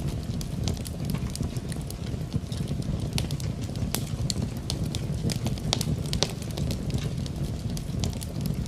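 Wood fire in a fireplace crackling, with frequent sharp, irregular snaps over a steady low rumble, mixed with the sound of rain.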